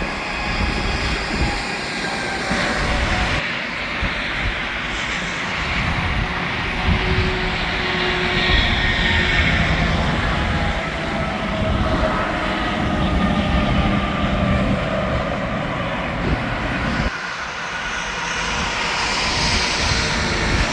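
Interstate traffic: semi-trucks and cars passing one after another, a continuous roar of tyres and diesel engines that swells and fades as each vehicle goes by. The sound changes abruptly about three seconds in and again near the end.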